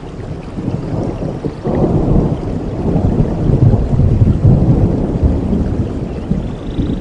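Heavy rain with a deep rumble of thunder that builds about a second and a half in, is loudest midway and dies away toward the end.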